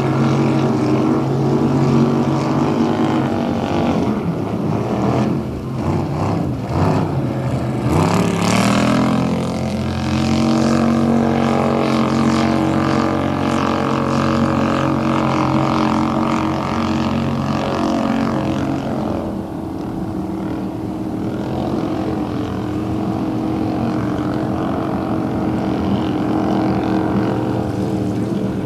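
Racing motorboat engines running loud and steady, with a sharp rise in pitch about eight seconds in as an engine revs up or a boat passes.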